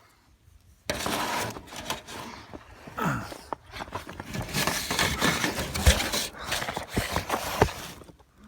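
Rustling, crinkling and scraping with scattered knocks from someone moving through a crawl space over plastic sheeting, starting about a second in and stopping near the end.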